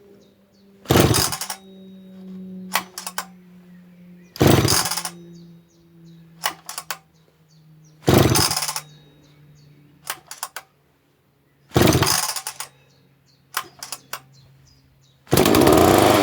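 Freshly rebuilt Husqvarna 2100CD two-stroke chainsaw being pull-started on its recoil starter: four short pulls, about one every three and a half seconds, then on the fifth pull the engine fires and runs for about a second and a half before its pitch falls away and it dies. This is the first firing of the cylinder after the rebuild.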